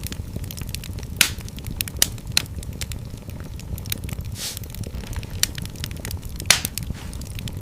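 Wood fire burning in a fireplace: steady low rumble of the flames with frequent crackles and a few sharper pops, and a brief hiss about four and a half seconds in.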